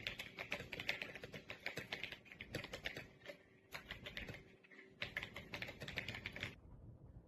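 Typing on an RK Royal Kludge S98 mechanical keyboard: quick runs of key clacks with short pauses, stopping about six and a half seconds in.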